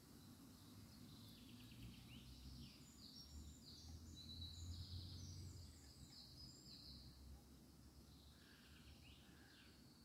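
Faint bird song: a run of quick, high chirping notes through the middle, then a few lower notes near the end, over a faint low rumble of outdoor background noise.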